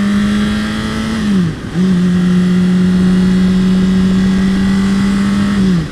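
Honda CBR600RR motorcycle engine pulling under acceleration with wind rush: the engine note climbs slowly, drops off briefly about a second and a half in as the rider shifts up, picks up at a lower pitch and climbs again, then drops off near the end for the next shift.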